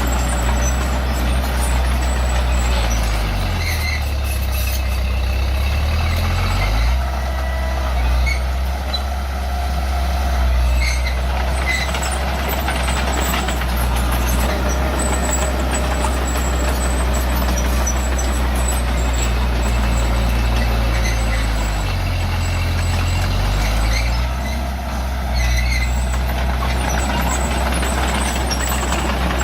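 Diesel engine of heavy earthmoving machinery running steadily under work. Its pitch dips and climbs back twice as the revs drop and pick up again, once a few seconds in and once past two-thirds of the way through.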